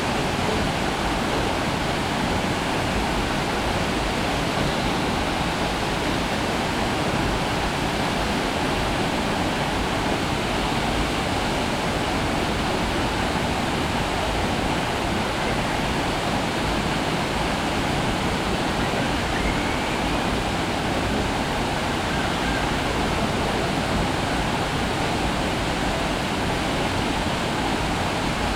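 Waterfall rushing: a steady, even roar of falling water without pause.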